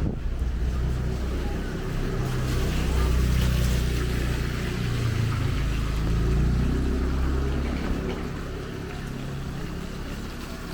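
A motor vehicle's engine running close by with a low hum, its pitch shifting a little, dropping away after about eight seconds.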